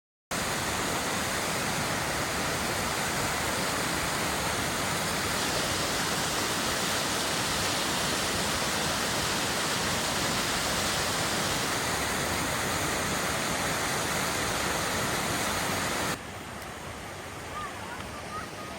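Steady rush of falling water from a waterfall. About three-quarters of the way through it drops suddenly to a quieter water sound, with a few faint high chirps near the end.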